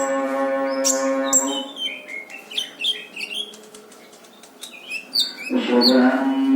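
A birdsong training recording: a run of short, high, quick chirping notes in the middle. A steady low droning tone with many overtones runs at the start and comes back about five and a half seconds in.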